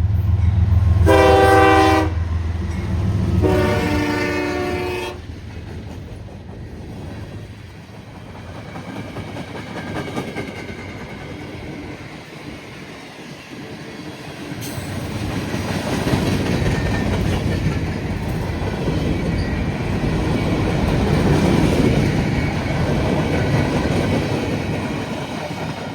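Diesel freight locomotive passing: its horn sounds two blasts in the first five seconds over the low engine hum. Then the cars roll by with wheels clattering on the rails, louder in the second half and fading near the end.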